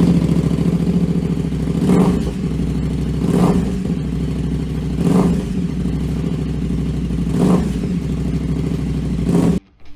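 The single-cylinder four-stroke engine of a 2006 KTM SMC 625 supermoto running loudly at a steady idle, blipped up briefly four times. The sound cuts off abruptly near the end.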